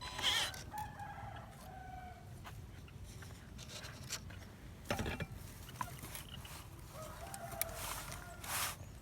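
A rooster crowing twice, one long call near the start and another near the end, with a short knock in between.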